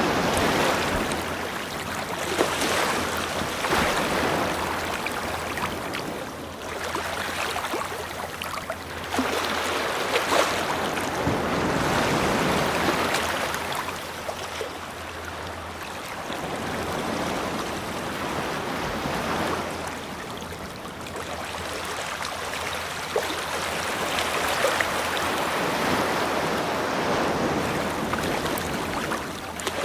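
Ocean waves breaking and washing up a beach, the surf's hiss swelling and fading every few seconds.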